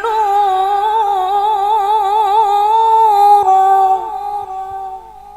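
A woman reciting the Quran in melodic tarannum style, holding one long ornamented note with wavering turns. It drops in strength about three and a half seconds in and fades out near the end.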